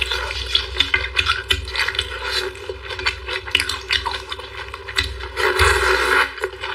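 Close-miked eating sounds: chewing and smacking with many small crackles and clicks, and a louder, denser stretch about five and a half seconds in.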